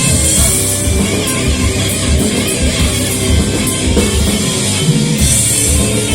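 Live metal band playing loud: distorted electric guitars over rapid, dense kick drums and cymbals.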